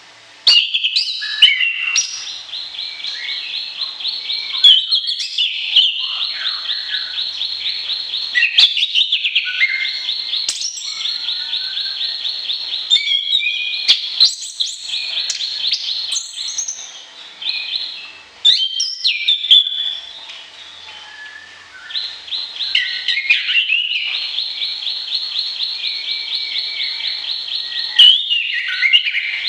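Songbird singing: long, rapid trills of repeated high notes broken up by varied chirps and whistled phrases, with a short pause about two-thirds of the way through.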